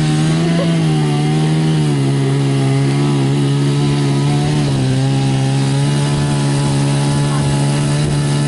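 Two-stroke chainsaw running at high revs while cutting through a tree trunk during felling. It holds a steady pitch that drops slightly about two seconds in and again around halfway, as the saw loads up in the cut.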